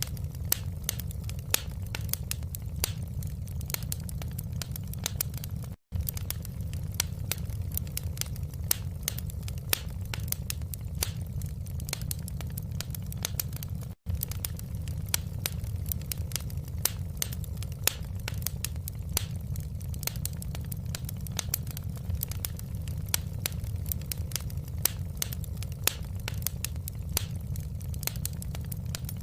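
Wood fire in a fireplace crackling, with many sharp, irregular pops and snaps over a steady low rumble of the burning fire. The sound cuts out for an instant twice.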